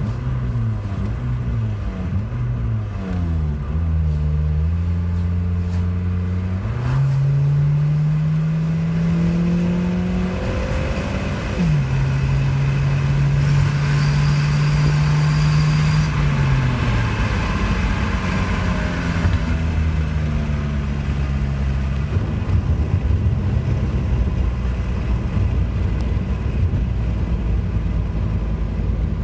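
2003 Nissan Sentra SE-R's 2.5-litre four-cylinder engine running with an exhaust leak. Its pitch climbs, drops suddenly about eleven seconds in, holds at a higher note, then falls back to a steady low note for the last third.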